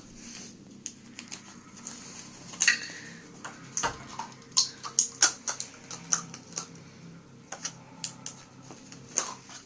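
Irregular sharp clicks and taps from a dog scrabbling about on a hard floor, loudest about three and five seconds in.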